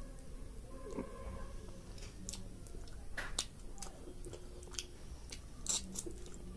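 Someone eating rice and curry: chewing with scattered wet clicks and smacks, the loudest about three seconds in and near the end.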